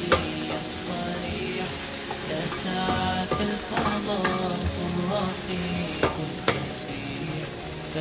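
Potato cubes and sliced onions sizzling as they fry in oil in a nonstick pan, stirred with a stainless-steel spatula, with a few sharp knocks of the spatula against the pan.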